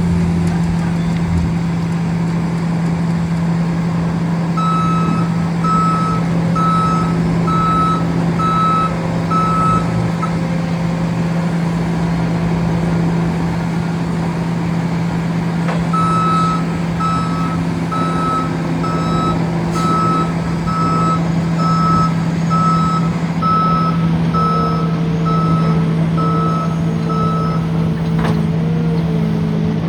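Backup alarm of a Bobcat skid-steer loader beeping steadily as it reverses, a little over one beep a second, in two runs separated by a pause of about six seconds, over the steady low hum of its running engine.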